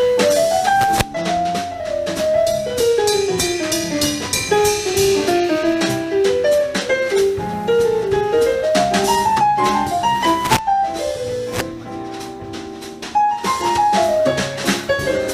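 Small jazz combo playing live: a melodic solo line of single notes over piano chords, bass and a drum kit with cymbals.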